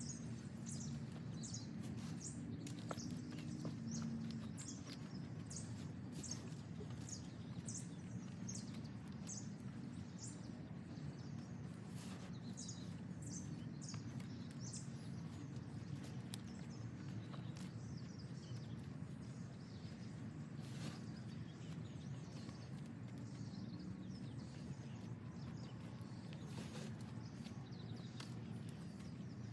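A bird calling in a series of short, high, falling chirps, about two a second for the first nine seconds or so, then only now and then, over a steady low background rumble.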